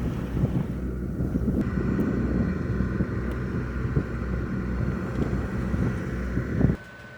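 Wind buffeting the microphone over a low, steady engine drone on a sailboat under way. It cuts off abruptly near the end.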